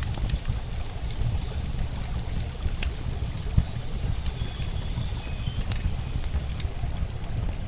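Running water flowing steadily under a crackling campfire, with scattered sharp pops and a thin, steady high whistle above them.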